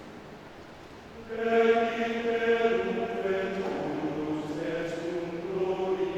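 Men's choir singing long held notes, quiet at first, then coming in louder a little over a second in and moving to new chords twice.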